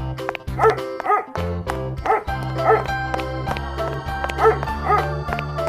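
Dog barking in three pairs of short barks over upbeat backing music with a steady beat.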